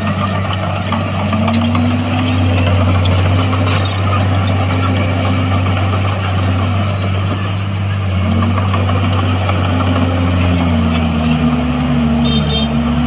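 Diesel engine of heavy earthmoving machinery running loud and steady, its pitch dipping and rising again several times.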